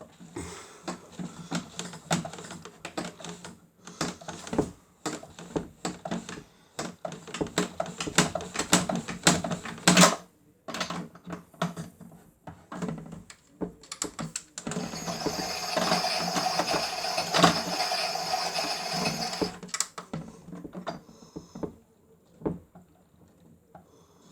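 Miele W1 toy washing machine running its cycle: a long run of irregular plastic clicks and rattles, and a steady motor whirr for about five seconds past the middle before the clicking returns and fades.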